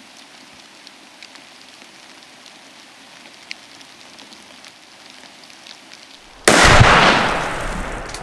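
Rain falling steadily with scattered drop ticks, then about six and a half seconds in a single loud shotgun blast fired at a turkey, its echo fading away over the next couple of seconds.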